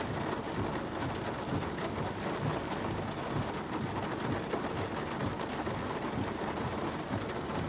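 Monsoon rain falling steadily on a stopped car, an even hiss with a patter of drops.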